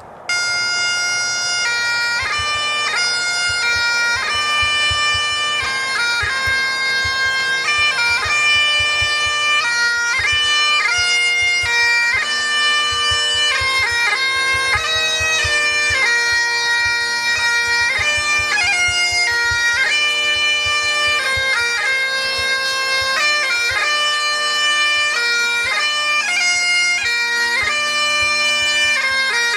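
Bagpipes playing a lively tune over steady, continuous drones, starting abruptly right at the beginning.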